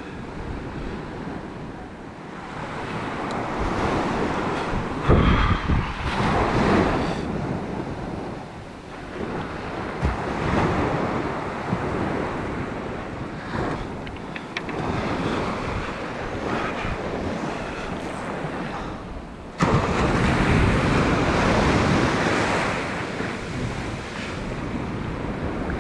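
Surf breaking on the beach, with wind buffeting the microphone. The noise swells and eases, and jumps suddenly louder about three-quarters of the way through.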